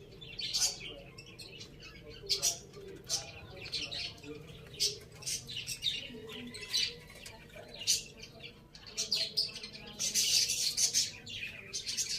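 Birds chirping: short, high chirps repeating every second or so, with a louder, denser burst of chirping and rustling about ten seconds in.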